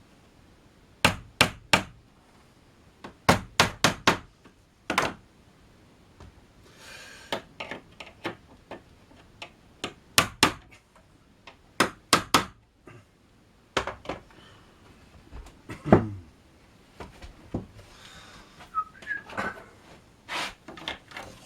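Small hammer tapping track pins, in quick runs of two to four sharp taps with short pauses between.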